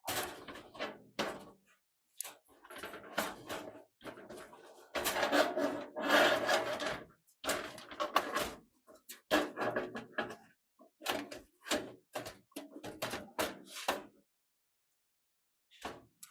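Hands handling computer hardware: irregular rubbing, scraping and sliding noises with a few knocks, in short bursts that stop near the end.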